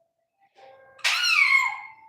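Pet parrot giving one loud, harsh call about a second in that slides down in pitch, after a few faint whistled notes.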